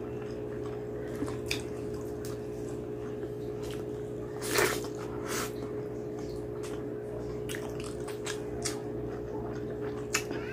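Close-miked wet chewing and lip-smacking from a person eating curry and rice by hand, with scattered small smacks and one louder wet smack about four and a half seconds in, over a steady low hum.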